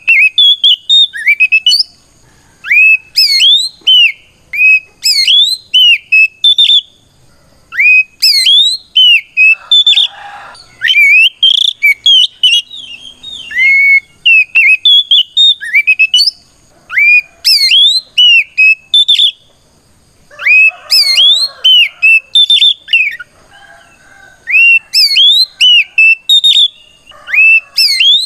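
Oriental magpie-robin (kacer) singing its loud, full-voiced challenge song, which calls out a rival: bursts of clear, rising whistled notes repeated over and over with short pauses, mixed here and there with a few harsher rasping notes.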